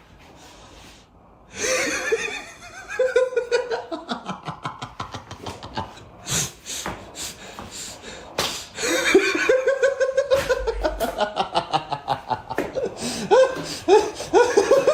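People laughing hard in quick repeated bursts, starting about a second and a half in.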